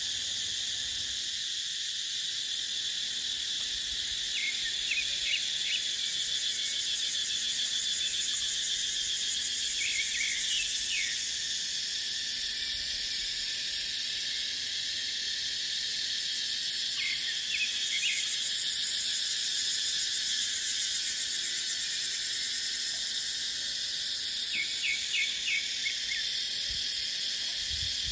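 Cicadas droning steadily in a dense high-pitched chorus that swells and pulses rhythmically for a few seconds past the middle. Short clusters of quick chirps recur about every six or seven seconds over it.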